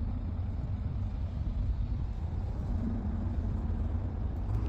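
Steady low rumble of a vehicle engine running, even throughout with no distinct events.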